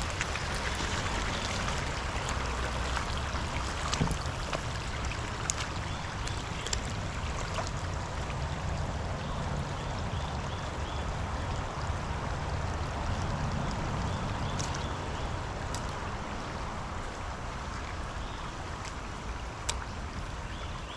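Shallow creek water running steadily, with a low rumble underneath and a few sharp clicks now and then.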